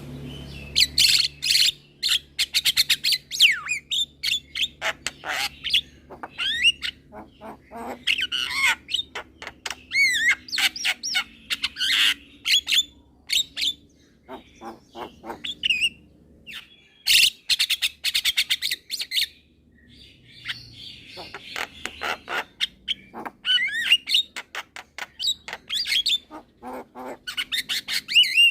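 A young Javan myna singing in bouts: fast runs of sharp clicks and rattles mixed with gliding whistles, broken by short pauses.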